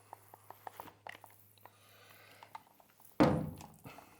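Handling noises in a small room: light clicks and taps for the first two seconds, then a single louder thunk a little past three seconds in that dies away within about half a second.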